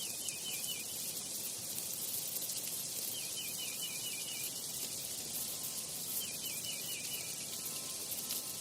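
Forest ambience: a dense, steady high hiss of insects, with a bird repeating the same short warbling phrase about every three seconds.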